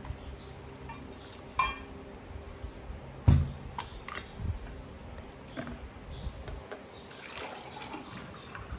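Water being poured into a drinking glass, with a ringing clink of glass about a second and a half in and a few knocks of the glass or jug on the table.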